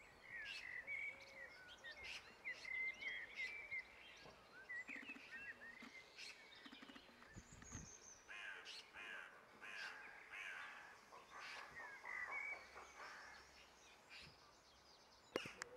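Birds calling: short chirping calls at first, then a harsh chattering rattle in the middle. A single sharp click near the end.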